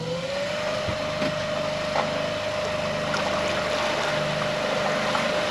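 Electric outboard motor whining as it spins up, its pitch rising slightly at the start and then holding steady as it pulls under load against a tow, over a wash of water noise.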